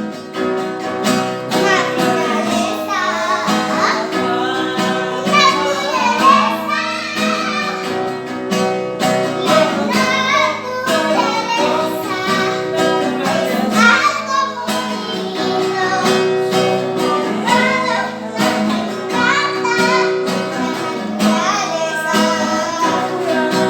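A voice singing a melody over a plucked acoustic guitar.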